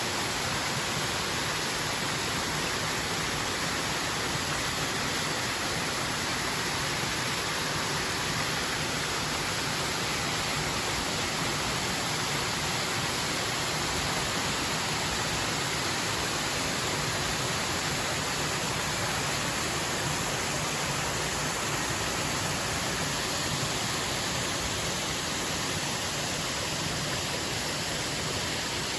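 Mountain waterfall heard from its base: falling water making a steady, unbroken rush of noise.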